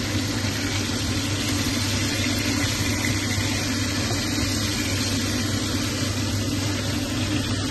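Fish steaks frying in hot oil in a pan: a steady sizzle over a constant low hum.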